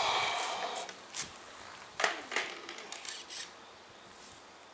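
A short rustling scrape, then a few light knocks and clicks.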